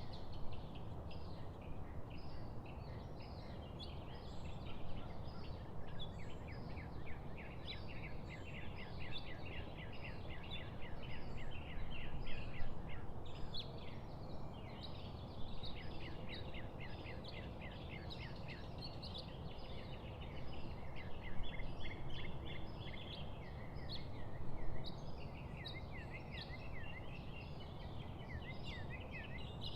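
A chorus of birds chirping and trilling continuously, with rapid runs of short high notes throughout and a quick repeated swooping note near the end, over a steady low outdoor rumble.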